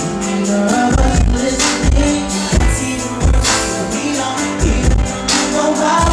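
Live R&B song performed with a band: a sung vocal over sustained keys or chords and a steady kick-drum beat.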